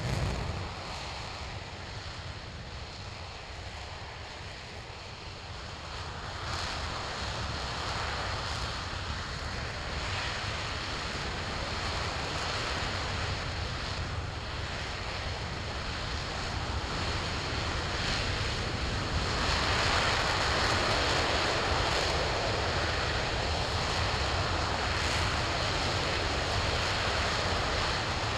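RS-25 liquid-hydrogen rocket engine firing in a ground test: a dense rush of noise that starts suddenly and grows louder about six seconds in and again about nineteen seconds in.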